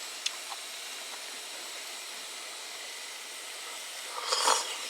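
A steady hiss, with a short, louder burst of noise near the end.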